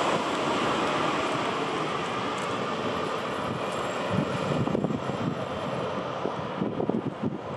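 Train running on the line: a steady rolling rumble and hiss that slowly fades, with some low irregular knocks.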